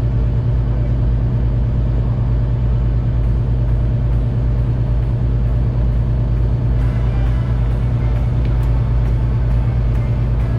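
Fishing boat's diesel engine running steadily, a loud low drone.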